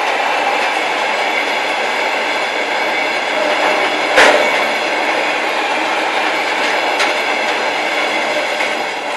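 Freight train hopper wagons rolling past on the rails, a steady rumble and rattle of wheels. There is one sharp bang about four seconds in and a lighter clack about seven seconds in. The noise begins to fade near the end.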